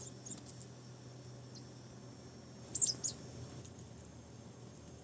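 Marsh tit giving a few short, high calls; the loudest is a pair of quick falling notes about three seconds in.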